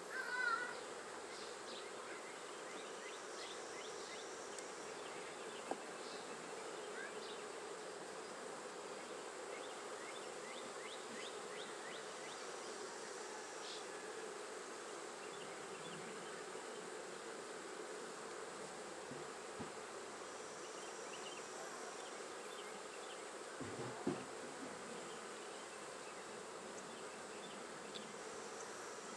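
Honey bees buzzing steadily around an opened hive, a continuous even hum. A faint tick about six seconds in and a brief knock a few seconds before the end.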